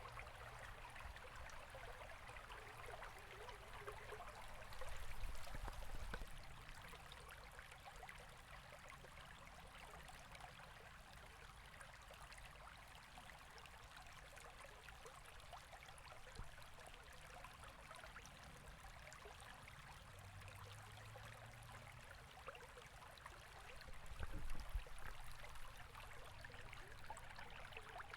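A river flowing in a faint, steady rush of water, with two brief low rumbles, one about five seconds in and one near the end.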